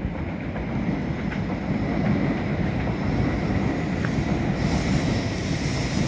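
N700S Shinkansen train pulling into a station platform: a steady low rumble of wheels and running gear that slowly grows louder, with a higher hiss joining about four and a half seconds in.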